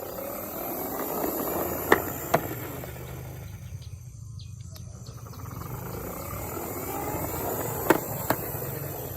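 Toy car rolling over a hard surface: a rumble that swells twice, each time with two sharp knocks about half a second apart.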